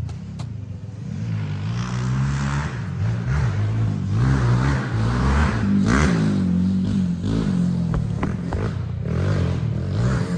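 Small dirt bike engine revving up and down repeatedly as it is ridden, with a sharp rise and fall in pitch about halfway through.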